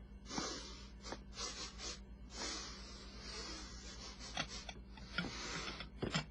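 A pig snuffling and snorting in several breathy bursts, one lasting over a second, with scattered light clicks between them.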